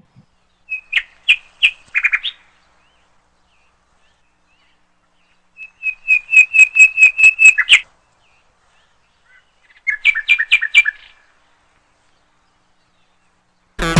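A bird calling in three separate bursts of quick, repeated high notes. The middle burst is the longest, about a dozen notes.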